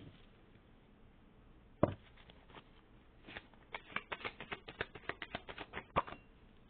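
Deck of tarot cards being shuffled by hand: a sharp snap about two seconds in, then a fast run of flicking clicks for about three seconds, ending with another sharp snap.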